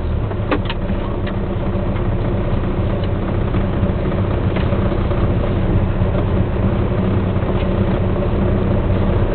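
Rally car engine idling steadily, heard from inside the car's cabin, with a few light clicks near the start.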